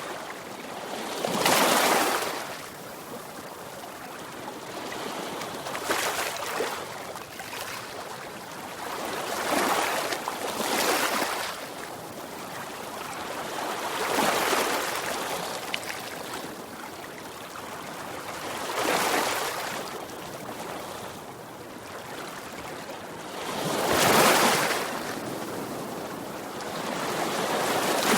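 Sea waves breaking on a shore, a surge of surf swelling and falling back every four to five seconds over a steady wash of water.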